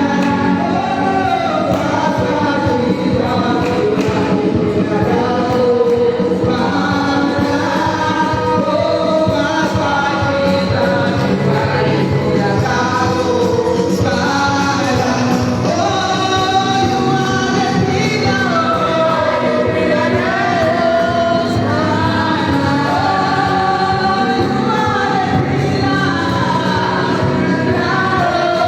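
A congregation or choir singing a gospel hymn together with instrumental accompaniment.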